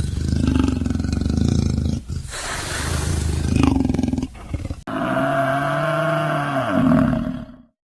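A large animal's loud calls: a low, rough pulsing growl, then a noisy roar, then a long pitched call that bends in pitch before cutting off.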